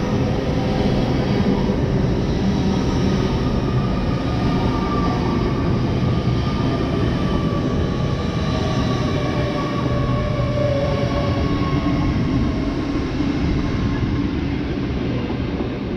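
A Class 801 Azuma electric multiple unit passes close by: a steady rumble of wheels on rail and rushing air, with faint whining tones over it. It eases slightly near the end as the last coach goes by.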